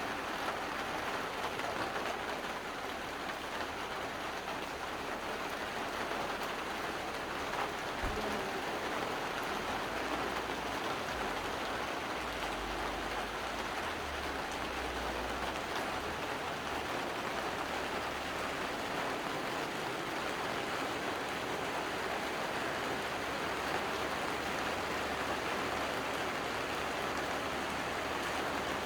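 Steady hiss of falling rain, with a low rumble from about ten to sixteen seconds in.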